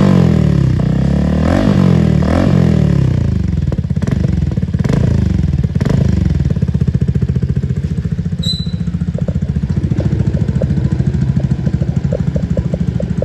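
Yamaha PG-1's single-cylinder engine running through an aftermarket Diablo dual-outlet exhaust, revved in several quick blips, then settling to a steady, evenly pulsing idle from about halfway in.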